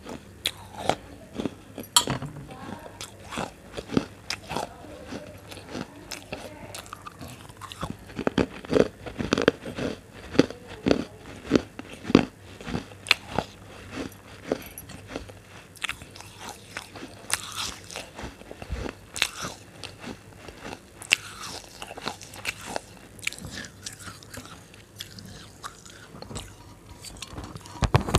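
A person biting and chewing crunchy food close to the microphone: a steady run of sharp, irregular crunches, several a second.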